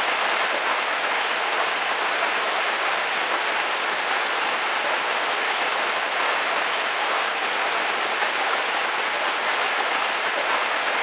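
Heavy rain falling on a camping car's roof, heard from inside the vehicle: a steady, dense patter without let-up.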